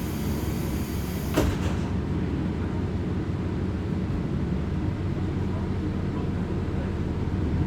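Interior running sound of a diesel railcar: a steady low engine and rolling drone. About a second and a half in, a high hiss cuts off with a single sharp click.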